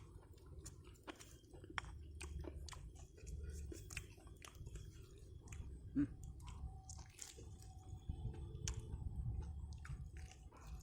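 Someone chewing and biting into crispy fried chicken, with many small crunching crackles.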